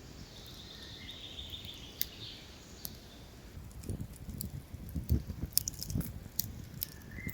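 Outdoor forest sound: a high bird-like trill in the first couple of seconds and a short chirp near the end, with scattered sharp clicks and soft low thumps in the second half.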